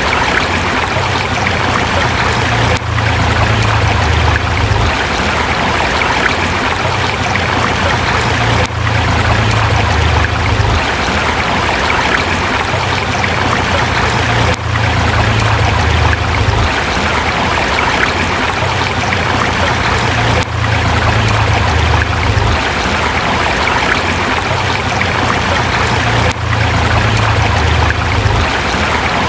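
Forest river flowing over rocks, a steady rushing of water with a low rumble underneath. The level dips briefly about every six seconds.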